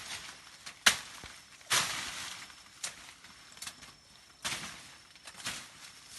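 A few sharp knocks and short rustling scrapes at irregular intervals, the loudest about a second in.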